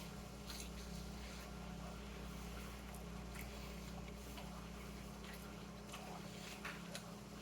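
Faint steady electrical room hum with a few soft, scattered clicks.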